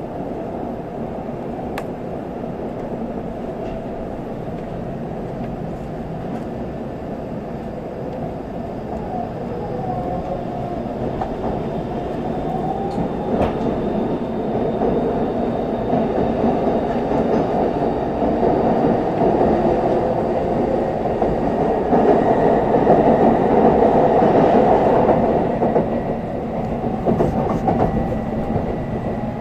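Running noise of an N700S Shinkansen train, heard inside the passenger cabin: a steady rumble of wheels on rail that grows louder as the train gathers speed, with a faint rising whine from about ten seconds in.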